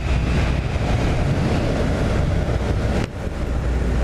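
Wind rushing over the microphone on a moving Yamaha MT-07 motorcycle, with the bike's parallel-twin engine running as a low steady drone underneath. The sound drops briefly about three seconds in.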